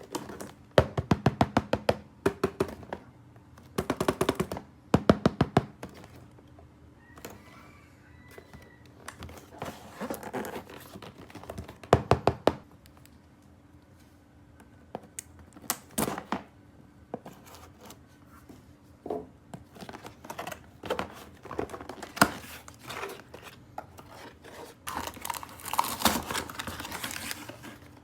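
Plastic toy pieces handled and clicked together: several quick runs of sharp clicks and taps with scattered knocks, then a stretch of crinkling plastic packaging near the end.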